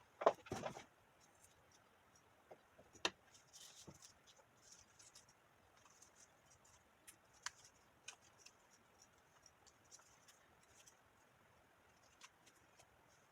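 Cardstock being handled: a quick run of sharp clicks and crinkles in the first second, then scattered soft taps and light rustling of paper.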